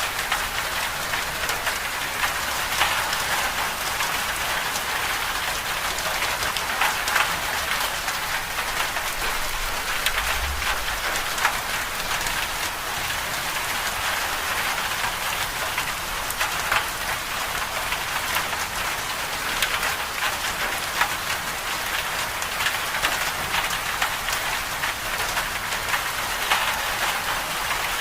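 Steady moderate rain falling on a surface, an even hiss with many individual drops spattering throughout.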